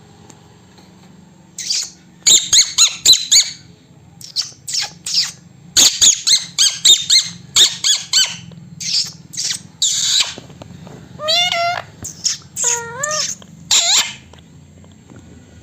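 Pet parrot squeaking and chirping in quick, short, high calls, then a few longer wavering calls near the end.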